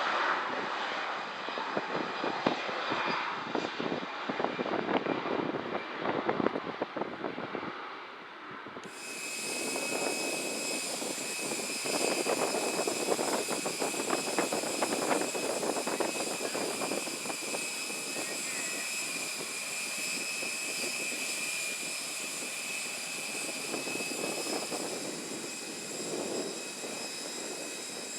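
Airbus A321 jet engines at takeoff power, a broad rumble that swells and fades. About nine seconds in, the sound cuts abruptly to the steady, high-pitched whine of a parked Airbus A319, with several fixed tones over a low rumble.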